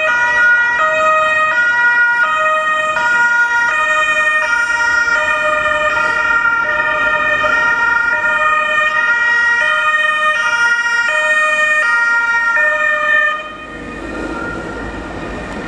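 Two-tone hi-lo sirens of Fiat Qubo local police cars, switching between two pitches about every three-quarters of a second. They cut off suddenly about thirteen seconds in, leaving road and engine noise.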